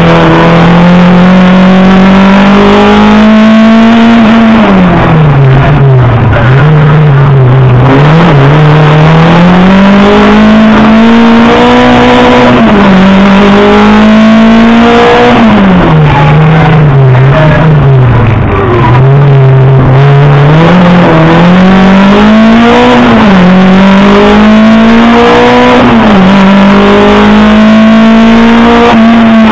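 Competition car engine heard from inside the cabin, running hard and loud: its pitch climbs under acceleration and drops sharply at each gear change or lift for a bend, about every two to four seconds.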